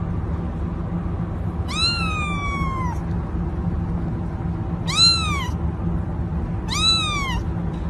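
Domestic cat meowing three times, each meow rising then falling in pitch, the first longer than the others, over a steady low background hum.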